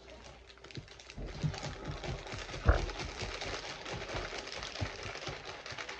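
Rustling with many small clicks and knocks as objects are handled, and one louder thump almost three seconds in.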